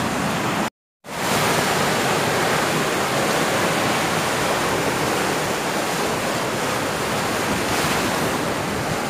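Sea surf washing steadily, mixed with wind on the microphone. The sound cuts out for about a third of a second near the start and fades back in.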